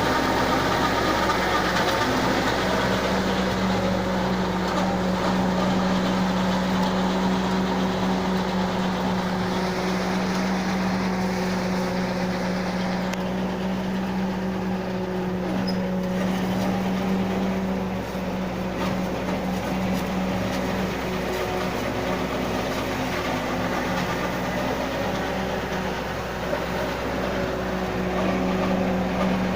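Tractor engine running steadily at an even speed under a tractor-mounted Napier grass harvester, with a constant low hum and a rougher mechanical noise over it.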